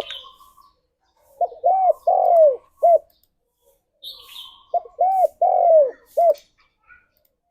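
Spotted dove cooing: two phrases of four arching coos each, a short note, two longer ones and a short closing note. A higher chirp from another bird comes just before each phrase.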